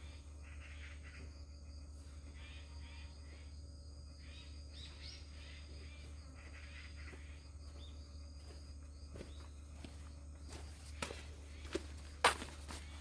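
Faint birds chirping over a steady low hum, then a few short knocks in the last couple of seconds.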